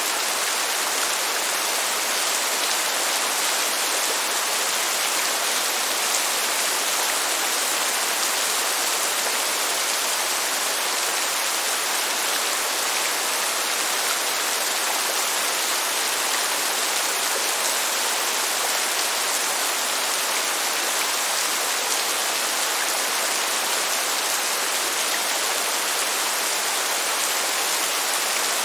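Steady heavy rain: an even, unbroken hiss with no thunder and no single drops standing out.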